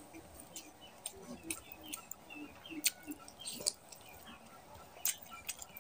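Close-up chewing of mutton curry and rice: wet mouth sounds, lip smacks and scattered small clicks.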